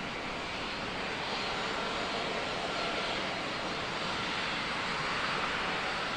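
Jet airliner engines running with a steady rushing noise and a faint whine, swelling slightly midway.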